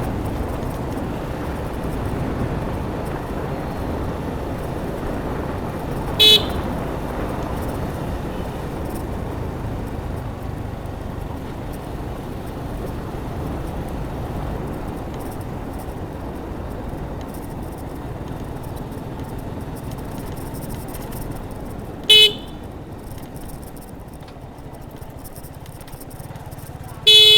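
Wind and road noise of a Suzuki Gixxer 155 motorcycle on the move, broken by three short horn beeps: one about six seconds in, one about twenty-two seconds in, and a slightly longer one at the very end.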